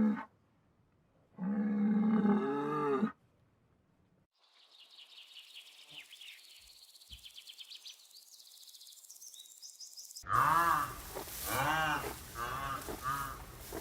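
A run of different animal calls: a long low call lasting about two seconds, then a faint, fast, high-pitched chirping for several seconds, then loud, rapidly repeated calls near the end.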